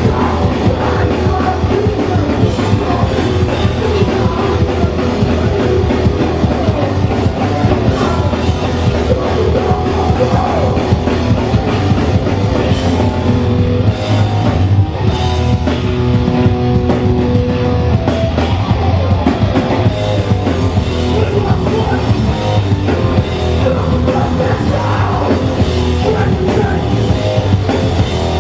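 Hardcore punk band playing live: distorted electric guitars, bass and a drum kit, with vocals over the top, loud and continuous.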